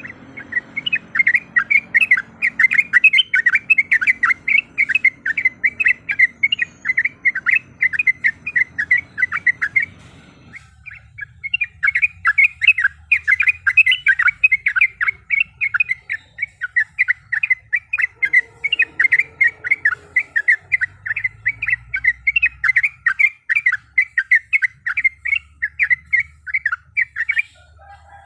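Yellow-vented bulbul (trucuk) giving a long, fast rolling call of rapidly repeated notes, about four or five a second. It breaks off briefly about ten seconds in, then starts again for a second long run.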